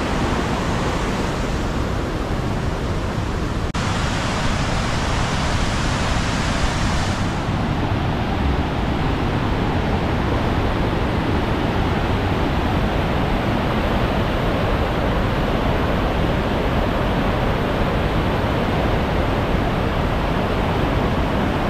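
Aysgarth Falls on the River Ure in spate: a heavy volume of floodwater pouring over the falls, making a loud, steady rushing noise. The hiss is brighter for a few seconds about four seconds in.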